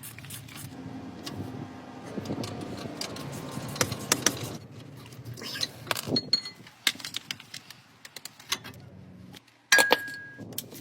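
Scattered light metallic clinks and rattling, like handling small metal parts or tools. Near the end comes a louder clatter with a brief steady high tone.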